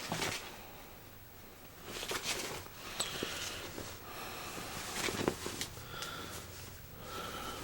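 Soft, irregular rustling and brushing of cargo pants fabric being handled and turned over.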